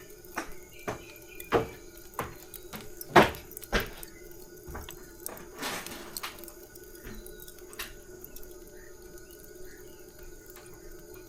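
A series of sharp knocks and clicks, about six in the first four seconds with the loudest a little over three seconds in, then a brief rustle, over a faint steady hum.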